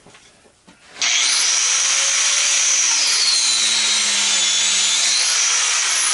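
Electric angle grinder starting about a second in and cutting into metal: a loud, steady grinding hiss with a high whine that wavers in pitch as the cut loads the disc.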